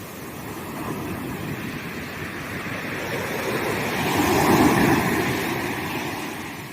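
Sea waves breaking on a sandy beach: the surf swells to a loud crash of a breaking wave about four and a half seconds in, then washes back down.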